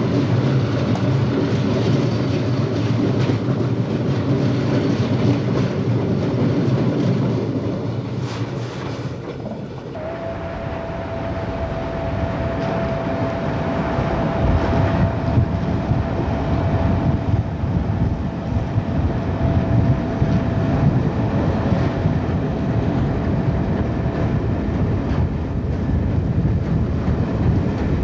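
Class 47-hauled passenger train running along the track, heard from on board. About a third of the way in the sound dips and changes, and a steady whine then holds until near the end.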